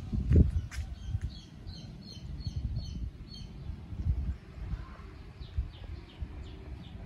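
A small bird chirping: a quick run of short high chirps for a couple of seconds, then more chirps near the end, over an uneven low rumble with a thump about half a second in.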